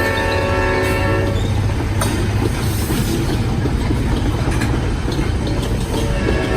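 Green Mountain Railroad train passing close by: its horn sounds a chord and cuts off about a second in, leaving the steady rumble and rattle of the train rolling past, and the horn begins again at the very end.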